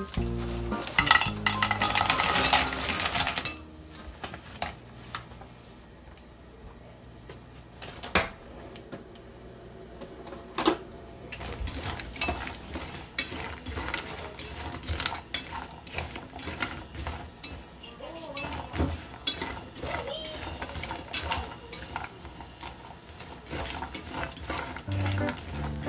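Korean hardtack biscuits (geonppang) tipped into hot oil in a frying pan, a loud sizzling rush for about two seconds. After that they fry more quietly, with scattered crackles and taps of wooden chopsticks against the pan as they are stirred.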